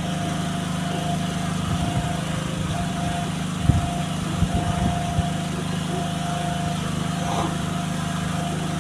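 A small motor running with a steady low hum and a thin whine above it that comes and goes. A few short knocks sound partway through.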